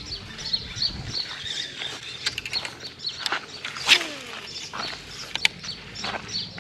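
Birds chirping, with a few sharp clicks and one louder snap about four seconds in.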